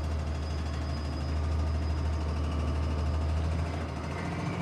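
A truck engine running steadily under load: a low drone whose note shifts slightly near the end.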